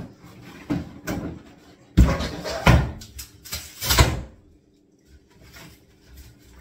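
Kitchen cabinet unit being knocked apart into flat panels: four sharp wooden bangs, a lighter one under a second in, then three loud ones about two, two and a half, and four seconds in.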